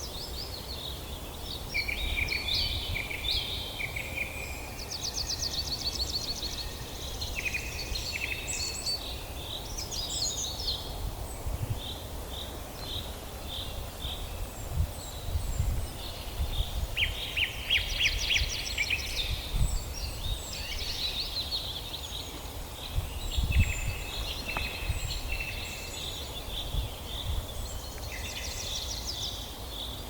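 Several songbirds singing together in a forest: overlapping chirps, whistles and rapid trills, with one busy trill about five seconds in and another about seventeen seconds in. A low rumbling background noise runs beneath the song.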